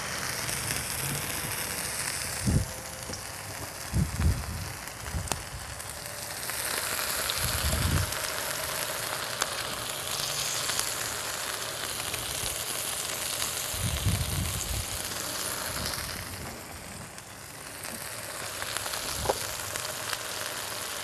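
Beans, bell pepper and tomato sizzling steadily in a hot skillet, stir-fried, with a few dull low thuds of handling here and there.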